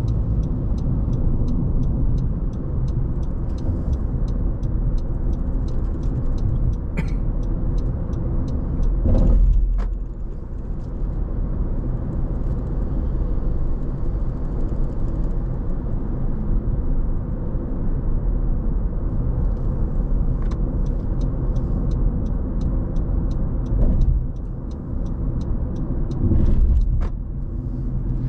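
A car driving at steady speed: continuous low road and engine rumble, with a regular light ticking about three times a second through the first seven seconds and again in the last nine. Brief louder swells about nine seconds in and twice near the end.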